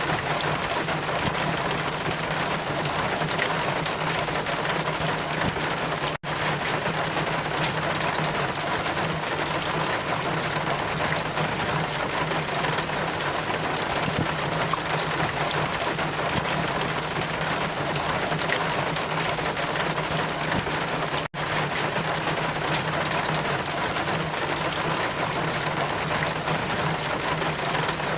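Steady rain, an even dense hiss with a low steady hum beneath it. The sound drops out for an instant twice, about six seconds in and again about twenty-one seconds in.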